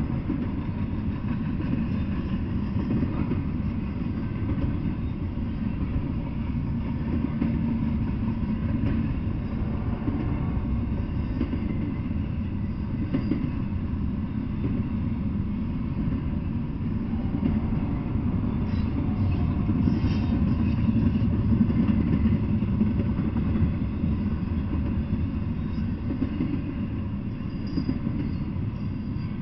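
Double-stack intermodal freight train rolling past on its well cars, a steady low rumble of wheels on the rails.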